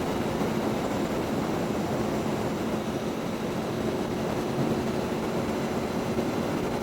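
Aprilia Tuono V4 1100 RR motorcycle cruising at a steady speed: a steady engine hum under wind rush.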